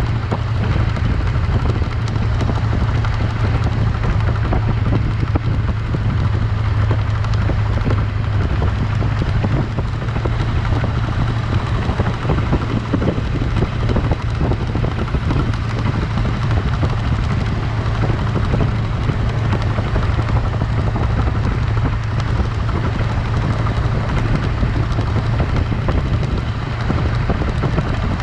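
A vehicle's engine and road noise while driving at a steady pace: a constant low drone over a steady rushing hiss.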